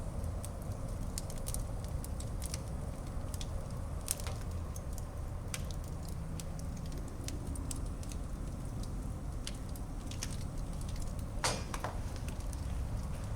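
Wood fire in a fireplace crackling: scattered sharp pops and snaps over a steady low rumble of the flames, with one louder crack about eleven seconds in.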